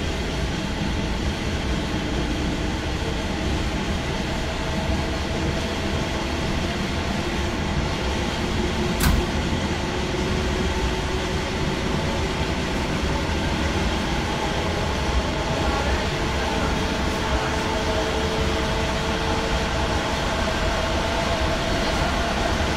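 Electric passenger train heard from inside the carriage while running along the line: a steady rumble of wheels on rails with a faint whine, and a single sharp knock about nine seconds in.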